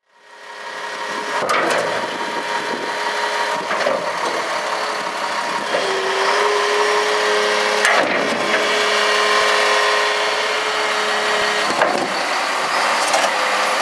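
Diesel engine of a 2000 Sterling dump truck running steadily, with a steady whine from about six seconds in until near twelve seconds and a few sharp clicks along the way.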